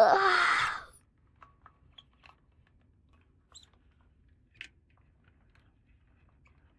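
A loud, wavering, voice-like wail fades out about a second in. It is followed by a few faint, light clicks and ticks of small plastic toy pieces being handled.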